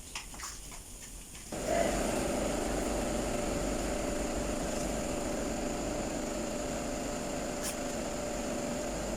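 A motor-driven machine switches on about a second and a half in and runs steadily with one constant tone, after a few light clicks.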